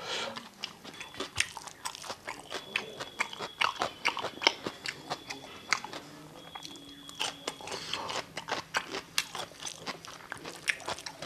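Close-up mouth sounds of biting and chewing raw salad vegetables, including a slice of cucumber, with many short, crisp crunches.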